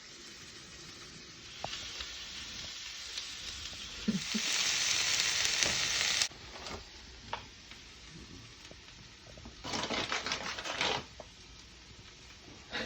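Food sizzling in a frying pan, loudest for about two seconds a few seconds in, then cutting off suddenly; a shorter burst of sizzling with scraping comes later.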